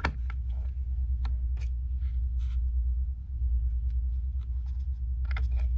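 Faint, scattered small clicks and ticks of a precision screwdriver and tiny screws being fitted into a metal plate inside a tablet, with a denser run of clicks near the end, over a steady low hum.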